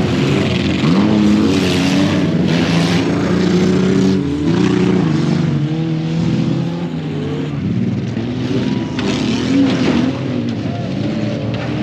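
Off-road vehicle engines revving up and down, more than one at a time.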